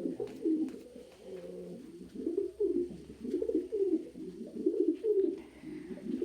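Several pigeons cooing in a loft, overlapping low swooping coos that come thicker and louder from about two seconds in. The talk around it is of cocks wooing and defending their nest boxes, which is what such cooing goes with.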